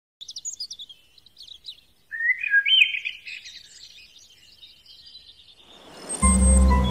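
Birds chirping: a run of quick high chirps, then a louder warbling phrase about two seconds in, then fainter chirping. Music with a deep sustained bass comes in near the end.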